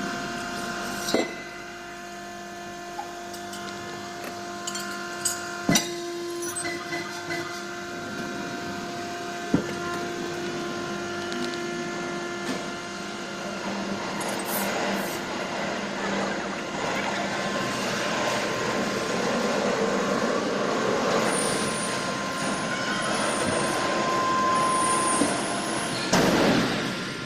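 Factory machinery running with a steady hum, struck by a few sharp metal knocks in the first ten seconds; a hissing noise builds up over the second half and ends in a short loud hiss near the end.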